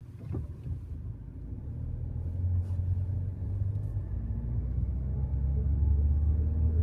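Citroën Grand C4 Picasso 1.6 HDi diesel running, with a low droning rumble that grows louder. The drone is the bearing-type noise that rises with engine speed, traced to a failed driveshaft and driveshaft bearing.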